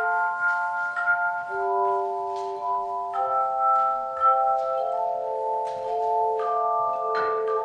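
Handbell choir playing a slow piece in chords: each note is struck and then rings on for a second or more, with several bells sounding together and new strikes every second or so.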